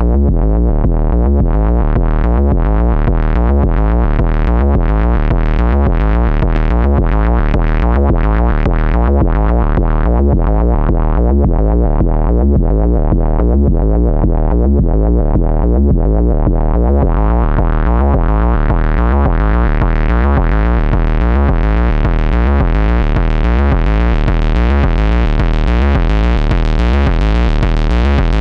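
Synth kick drum and bass loop from an Ants! synthesizer, saturated and distorted through a Spice saturator's Nutube and fuzz circuits. The loop repeats steadily with a heavy low end and grows brighter and more driven a little past halfway.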